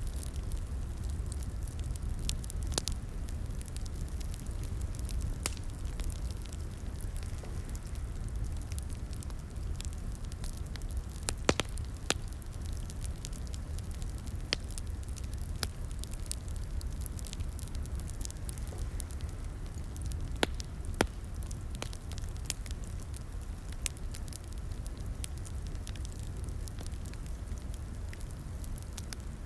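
Wood fire crackling in a fireplace: a low, steady rumble of flames with irregular sharp pops and snaps, a few louder pops in the middle.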